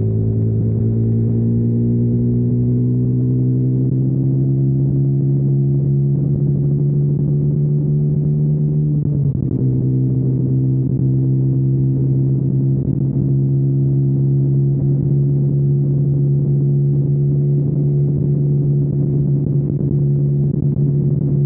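Single-cylinder four-stroke engine of a KTM Duke 125 with a Storm GP aftermarket exhaust, pulling while riding. Its pitch climbs slowly, breaks briefly about nine seconds in, then holds steady at a higher pitch.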